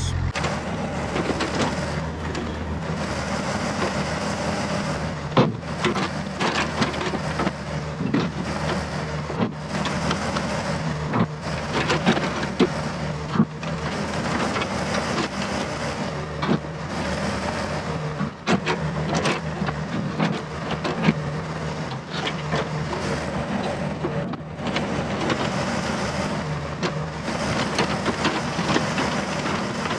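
Yanmar VIO50 mini excavator's diesel engine running steadily under work, with frequent irregular clacks and scrapes of the steel bucket digging into a pile of rocks and the rocks knocking together.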